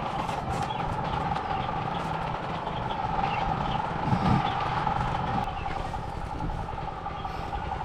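Steady vehicle noise with a constant hum, with a brief low bump about four seconds in.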